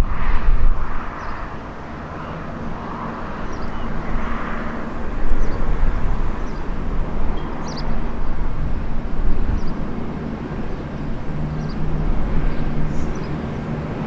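Diesel passenger train running through a station: a loud, steady low rumble with an engine drone that grows stronger in the last few seconds. A few faint high chirps sound over it.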